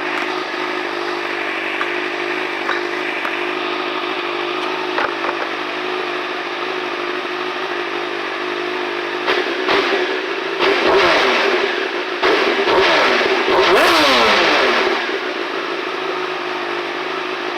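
Honda CBR929RR inline-four sport bike with a full Yoshimura titanium exhaust, warmed up and idling steadily, then revved in four quick throttle blips, the last one the longest, before dropping back to idle.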